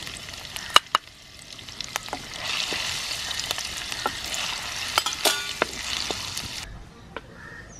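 Sliced garlic and ginger sizzling in hot oil in a pot, stirred with a wooden spoon that knocks and scrapes against the pot now and then. The sizzling cuts off abruptly near the end.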